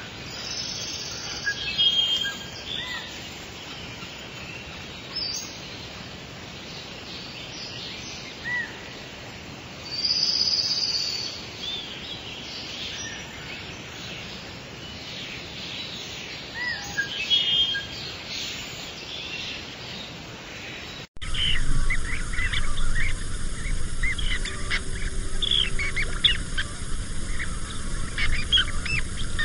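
Wild songbirds chirping and calling at intervals, with a louder call about ten seconds in. About 21 seconds in the sound cuts suddenly to a louder, busier chorus of many quick chirps.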